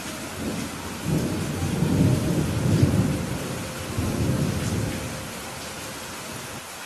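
Rolling thunder over steady rainfall. The low rumble builds about a second in, peaks in two swells and dies away over a few seconds, while the rain hiss carries on.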